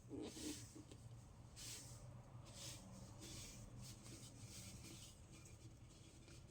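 Baked baking soda being crunched, faint soft crunches roughly once a second.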